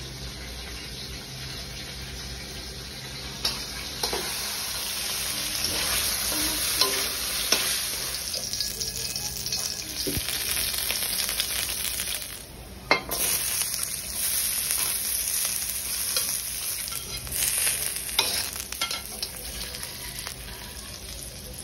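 Chopped ginger and butter sizzling in oil in a steel wok: a steady frying sizzle with scattered clicks and scrapes of a spatula against the metal. A short drop in the sizzle comes a little past halfway.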